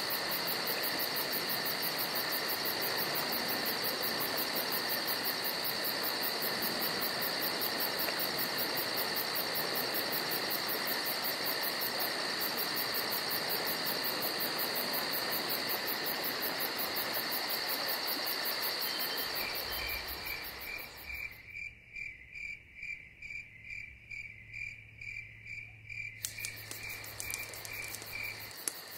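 Steady, shrill chorus of calling insects. Near the end a repeated chirping note, about three a second, joins over a low hum.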